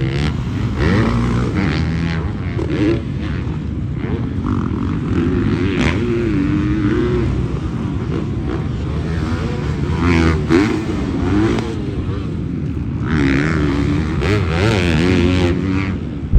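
Motocross dirt bike engines revving up and down as riders work their way around the track, the pitch rising and falling with each throttle change.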